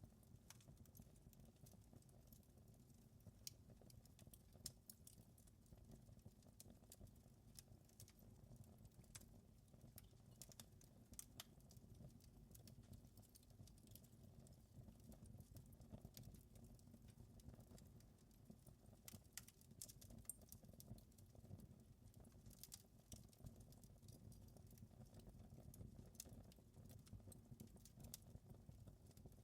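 Faint crackling of a fire in a fireplace: scattered small pops and snaps at irregular times over a low, steady rumble.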